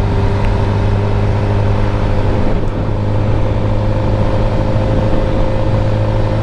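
2013 Suzuki GSX-R 600's inline-four engine running at steady revs, with an even, unchanging engine note.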